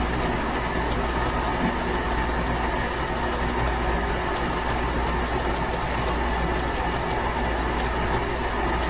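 Electric stand mixer running steadily, its paddle beating rye bread dough, with an even motor hum.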